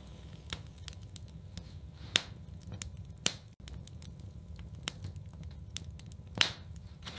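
Wood fire burning in a fireplace, crackling steadily with irregular pops and snaps over a low rumble, three of them louder than the rest.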